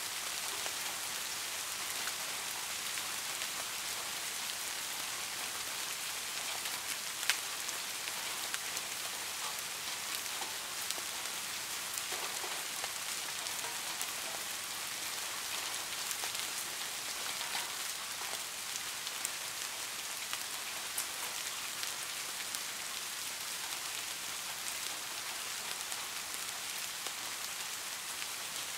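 Heavy rain falling steadily, an even hiss weighted toward the high end, with scattered drops ticking sharply. One louder tick comes about seven seconds in.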